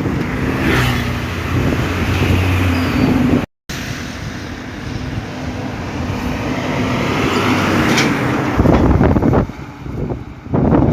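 Heavy trucks driving past in a convoy: a steady low engine hum for the first three seconds, then road and tyre noise swelling to a peak as a vehicle passes close about eight seconds in. The sound cuts out for a moment a little over three seconds in.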